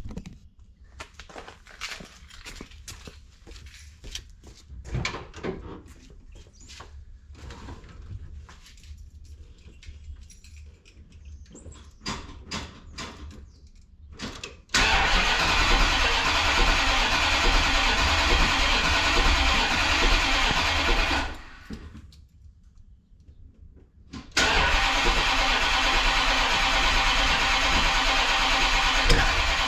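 Scattered quiet clicks and knocks, then the 440 Six Pack V8 of a 1970 Dodge Challenger starts cold about halfway through and runs loudly for about six seconds. It dies away, and after about three seconds it starts again suddenly and keeps running steadily.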